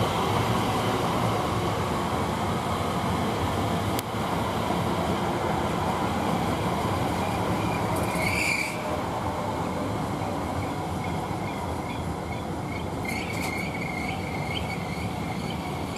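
Class 345 electric multiple unit running into the platform as it arrives to terminate, a steady rumble of wheels and traction. Brief high wheel squeals come about eight seconds in and again near the end.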